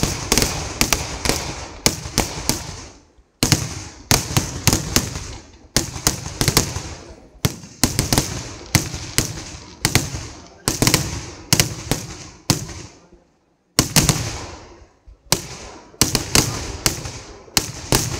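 Vedikkettu fireworks: rapid volleys of loud firework shells bursting, several sharp bangs a second, each one echoing. The volleys break off briefly twice.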